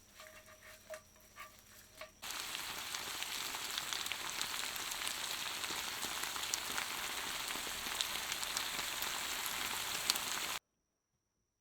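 Food frying in hot oil: a steady sizzle with scattered crackles that starts abruptly about two seconds in and cuts off suddenly near the end.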